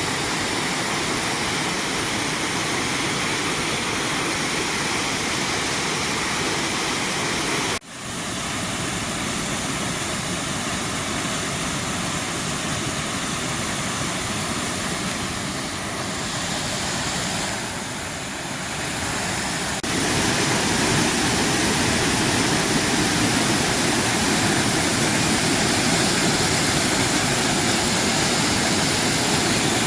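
Waterfall rushing: a steady, even hiss of falling water. The sound cuts abruptly about eight seconds in and again about twenty seconds in, coming back louder after the second cut.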